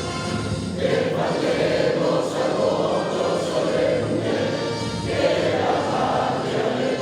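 Choral singing with musical accompaniment, voices holding long notes across a couple of phrases.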